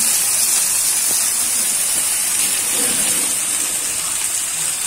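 Egg-dipped bread slices frying in ghee on a dosa tawa: a steady sizzling hiss.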